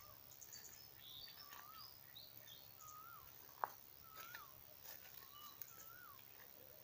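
Faint songbirds calling: a series of short whistled notes that rise then fall, about one a second, with quicker higher chirps from other birds. A single sharp click about three and a half seconds in.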